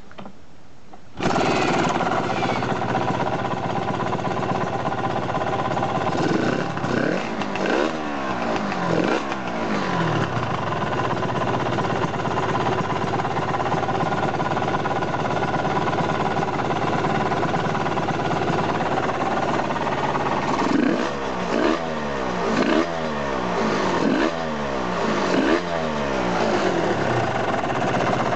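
Aprilia RS250's two-stroke V-twin starts about a second in and runs with a punchy exhaust note, on its first start after an engine overhaul with new pistons and reed valves. It is revved with a handful of quick throttle blips a few seconds later, and again in a run of blips near the end.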